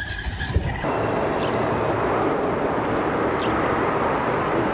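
Steady rushing rumble of a train moving along the tracks, after a brief stretch of vehicle engine noise that cuts off about a second in.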